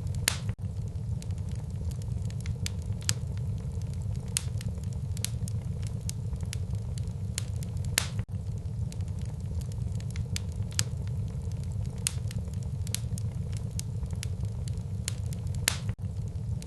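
Wood fire burning in a fireplace: irregular sharp crackles and a few louder pops over a steady low rumble of the flames.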